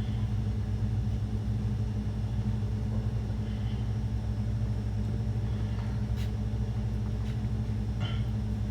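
A steady low mechanical hum, with a few light clicks, most clearly about six and eight seconds in.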